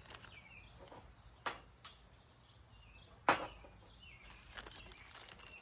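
Two sharp clicks from handling string-trimmer parts, about two seconds apart, the second louder. Birds chirp faintly throughout.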